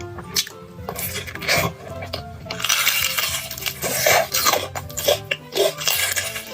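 Eating sounds: utensils clinking and scraping against a bowl or plate, with chewing and slurping, in many short irregular strokes.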